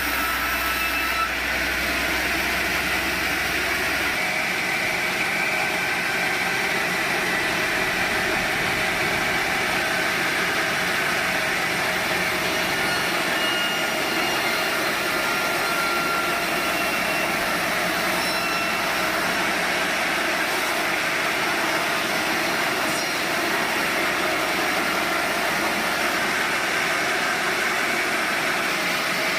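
Sawmill machinery running steadily, an even, dense mechanical noise. A low hum underneath stops about four seconds in.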